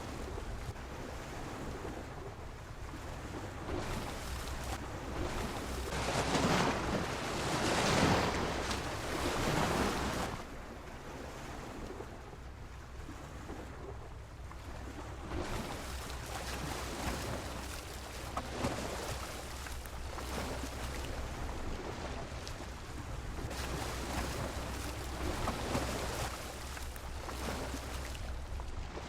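Sea waves washing against a pier, with one loud surge lasting several seconds about six seconds in and a smaller one near the end. A steady low rumble of wind on the microphone runs underneath.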